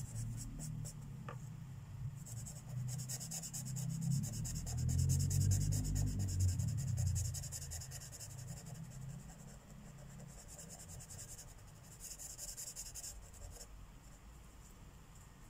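Marker tips stroking across paper while colouring, a steady scratchy rub in runs of strokes with brief pauses. A low rumble, loudest a few seconds in and then fading, runs underneath.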